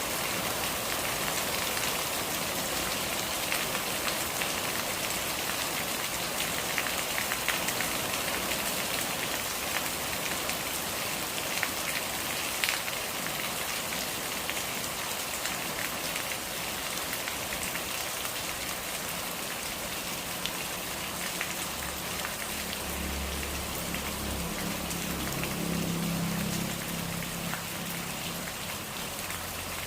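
Steady rain falling on a surface, with many separate drops ticking close by. In the last third a low hum joins in underneath.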